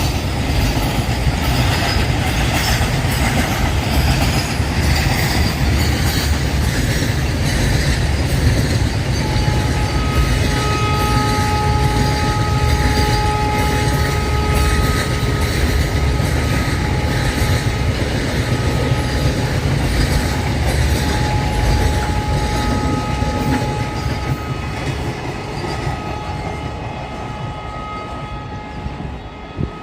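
A double-stack container freight train rolling past, a steady heavy rumble with rapid clicking of wheels over the rail joints. From about a third of the way in, a thin steady squeal of wheels on the rails rings over it, on and off, and the noise fades over the last few seconds.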